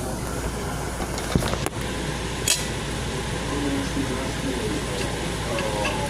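Steady kitchen hiss while cooking, with three sharp clinks about one and a half to two and a half seconds in.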